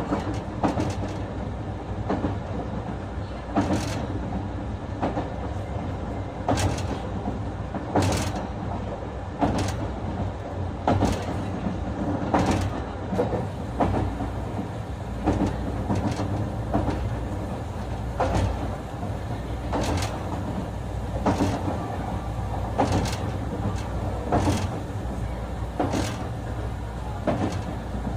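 Running sound inside a JR West 221 series electric train's motor car: a steady rumble from the wheels and motors, with sharp clacks from the wheels crossing rail joints every second or two.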